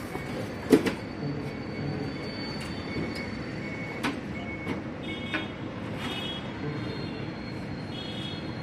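Scattered sharp metal clinks and knocks from hand tools over steady workshop background noise; the loudest knock comes about a second in.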